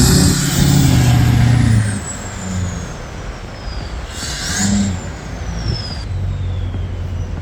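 A four-wheel-drive engine revving hard for about two seconds, then easing off and revving briefly again, with a high whistle that rises and then slowly falls away.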